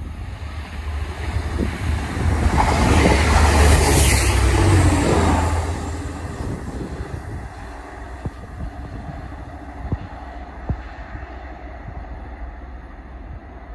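A TransPennine Express Class 185 diesel multiple unit passing along the line: engine rumble and wheel and rail noise build to a loud peak about four seconds in, then fall back to a lower steady rumble.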